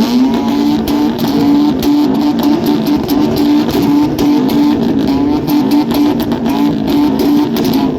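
Car engine revved up and held at high revs, giving a steady, high-pitched exhaust note with a rapid stutter.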